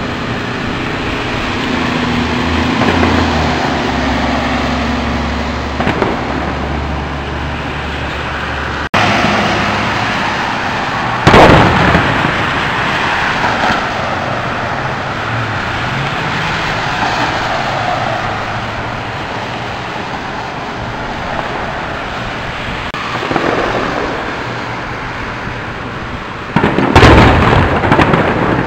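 Fireworks exploding: loud booms, the biggest about eleven seconds in and again near the end, with weaker bangs between, over a steady outdoor din. A low steady hum runs through the first several seconds.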